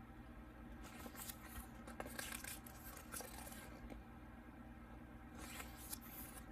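Faint, irregular rustling of paper and plastic packaging as merchandise items are handled, in a few short spells over a steady low hum.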